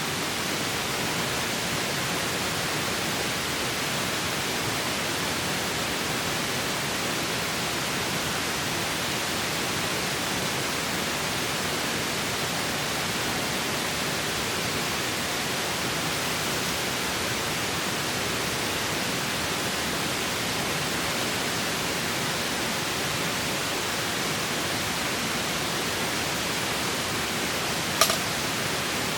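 Steady rushing of a river, an even noise with no change, broken once near the end by a single sharp click.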